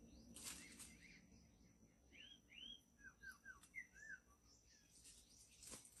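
Faint bird calls: a few quick curved chirps, then a short run of falling notes, over a thin steady high-pitched tone.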